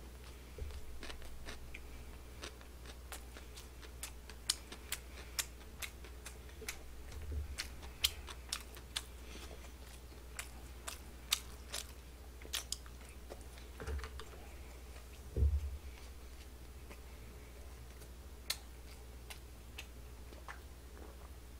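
Close-up chewing of boneless fried chicken gangjeong: a string of short, sharp crunchy clicks, with a couple of louder dull knocks a little past the middle, over a low steady hum.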